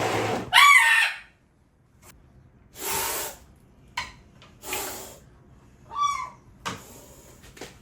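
A macaw squawks twice, loud harsh calls about a second in and again near the end, with short hissing bursts in between.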